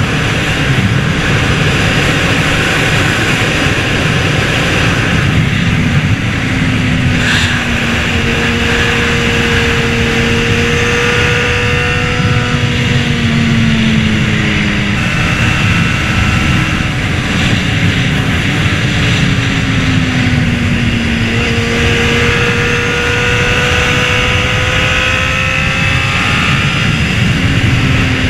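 Honda CBR600RR inline-four engine running at speed under heavy wind rush, its pitch rising and falling a few times as the throttle is worked through the curves.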